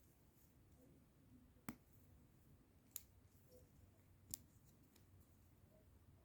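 Three sharp clicks of plastic Lego Technic pieces being handled and pressed together, spaced over a few seconds against near silence.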